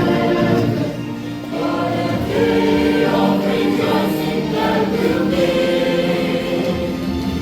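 A choir singing a hymn in held chords.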